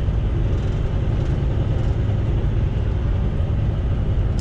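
Semi truck on the move: steady low engine and road rumble with an even background hiss.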